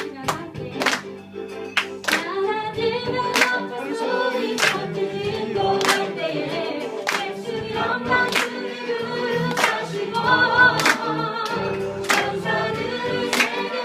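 A gospel praise song sung by a group of voices over instrumental accompaniment. The voices come in about two and a half seconds in. Sharp, regular hits land about every second and a quarter, keeping the beat.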